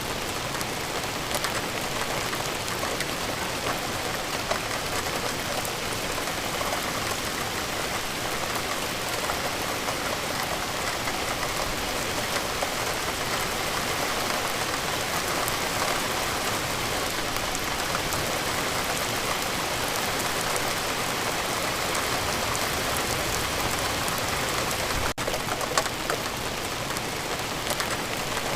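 Steady rainfall, an even hiss of rain with the patter of individual drops striking a surface.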